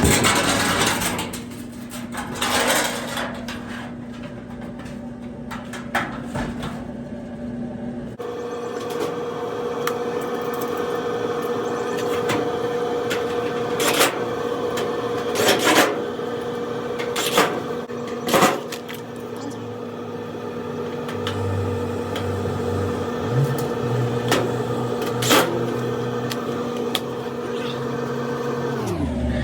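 Whirlpool electric dryer running with its new heating element heating: a steady motor and drum hum, with scattered clicks and knocks. The hum shifts to a higher tone about eight seconds in.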